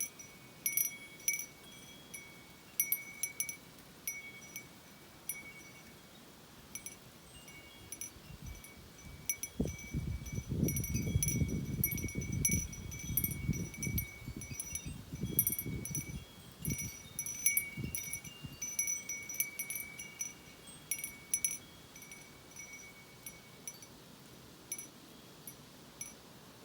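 Wind chimes ringing in irregular clusters of metallic strikes in a storm wind. In the middle there is a stretch of low wind rumble on the microphone.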